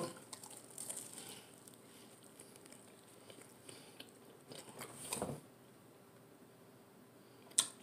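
Close-up eating sounds of a person biting into a crispy chicken quesadilla and chewing it: faint crunching and mouth noises, a little louder about five seconds in, with a sharp click near the end.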